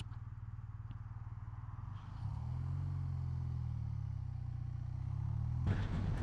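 BMW R12 NineT's air-cooled boxer twin running on the move, its note rising about two seconds in and then easing. Near the end a broad rushing noise grows louder over the engine.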